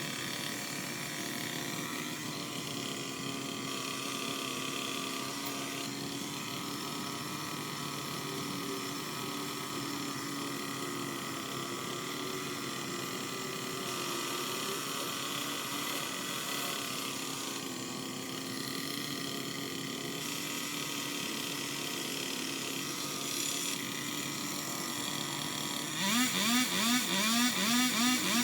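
A small motor running steadily with a slightly wavering hum, then about 26 seconds in a quick series of short rising whirs, about three a second and louder.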